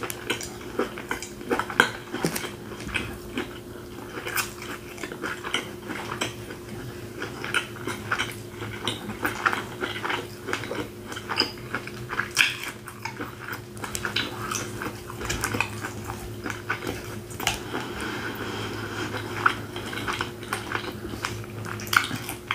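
Close-miked chewing of grilled steak: many small, wet mouth clicks and smacks, with light taps and scrapes of plastic cutlery on the plate. A steady low hum runs underneath.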